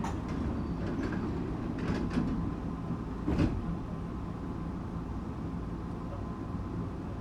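Tokyu 8500 series electric train running, heard from inside the car as a steady low rumble. A few short clacks sound over it, the loudest about three and a half seconds in.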